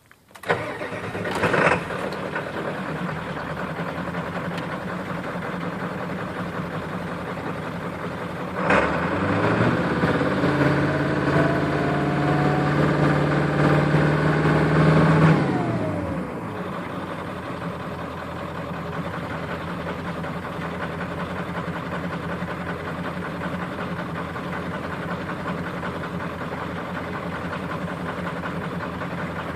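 1996 Ford 7.3 Powerstroke turbo-diesel V8 starting with a brief flare, then idling. Partway through it is revved: the rpm climbs slowly for about six seconds, then falls back to idle. The owner's complaint is a rough idle and slow rpm gain.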